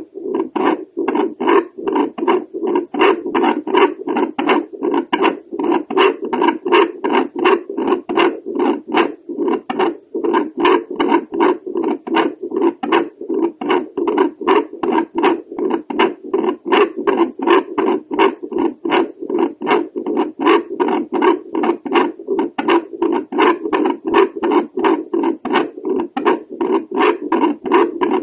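Home fetal doppler listening to an adult's heartbeat over the aortic valve: rhythmic whooshing pulses, two to three a second and often in pairs, over a steady hum.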